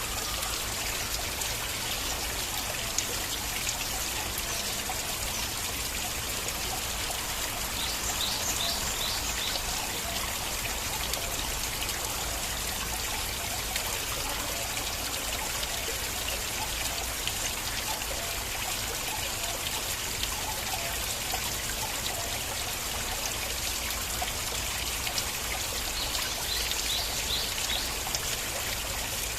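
Stream of water flowing and trickling steadily, an even rush without pauses.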